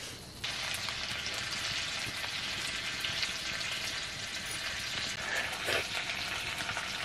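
Food frying in hot fat in an iron kadai. A steady sizzle starts suddenly about half a second in and carries on, with fine crackling spits throughout.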